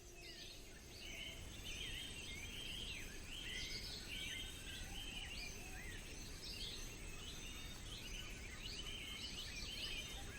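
Faint forest ambience with many birds chirping and warbling over a soft low hiss, the calls swelling in about a second in.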